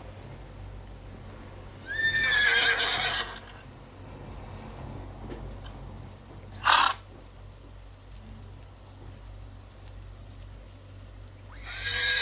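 A horse neighing twice, once about two seconds in and again near the end, each call lasting about a second and a half. Midway there is one brief, sharp noise, with a steady low hum underneath.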